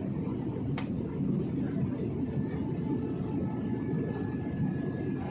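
Steady low rumble of a jet airliner's cabin in flight: engine and airflow noise. A single sharp click about a second in.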